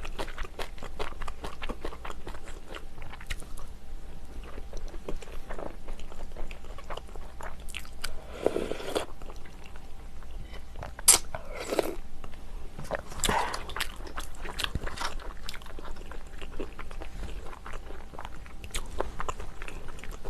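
Close-up eating sounds of a person working through a seafood stew with clams: chewing, biting and small clicks throughout, with a few longer, louder noisy sounds about 8, 11 and 13 seconds in.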